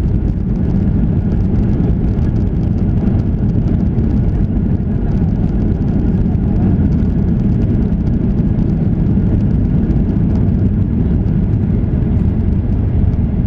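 Steady in-flight cabin noise of a Boeing 737-800: a continuous low rumble of its engines and the airflow, with faint steady tones higher up.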